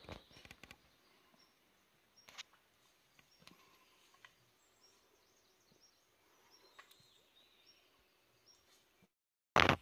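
A small bird calling with repeated short high chirps over quiet forest ambience, with a few faint knocks and scuffs. A sudden loud rustling burst comes near the end.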